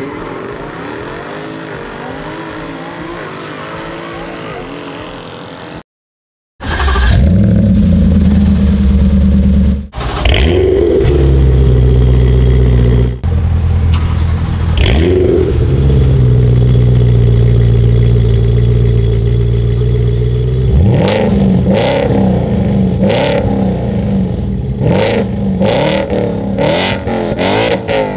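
V8 sports car exhaust being revved while stationary: revs held steady for a few seconds at a time and let fall back, then from about three-quarters of the way through, quick sharp throttle blips with cracks. Before a short break near the start, a quieter sound with a wavering pitch.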